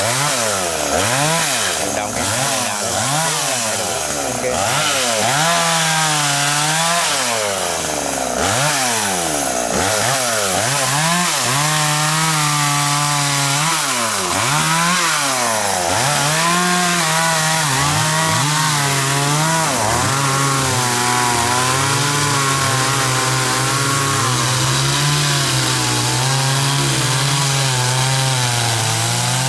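Chainsaw cutting khaya wood. For the first twenty seconds or so the engine revs up and drops back again and again, about once a second, then holds at steady high revs toward the end.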